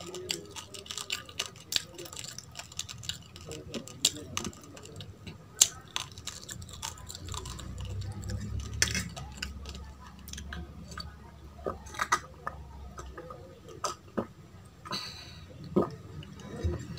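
Close-up chewing and crunching of raw rice and raw baby carrot, with irregular sharp crunchy clicks, a few of them much louder than the rest.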